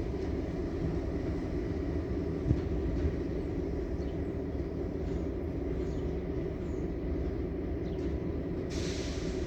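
CN freight train rumbling steadily, with one sharp knock about two and a half seconds in.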